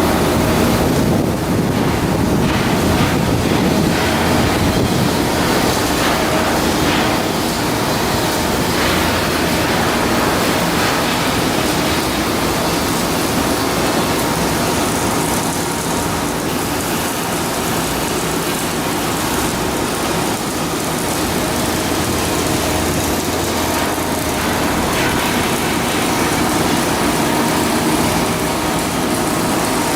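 Steady loud machinery noise with a constant low hum and a few faint steady tones.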